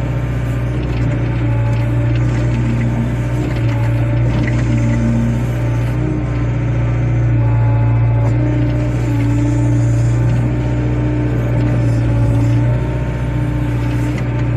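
Excavator's diesel engine running steadily under work, a constant deep hum that swells slightly now and then as the load changes.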